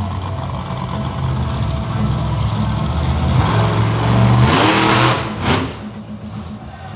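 Monster truck engine running with a low, steady rumble, then revving up about four and a half seconds in with a loud rush of noise that quickly fades.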